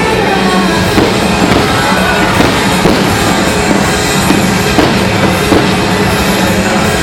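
Loud music played over loudspeakers for a fireworks display, with fireworks bursting and crackling over it several times.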